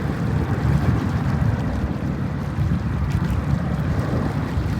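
Steady low rumble of a departing Boeing 777's jet engines as it climbs away after takeoff.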